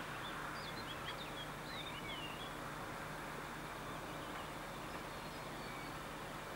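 Small birds chirping in quick twittering calls for the first couple of seconds, then fainter calls later, over a steady outdoor background hiss and a faint low hum.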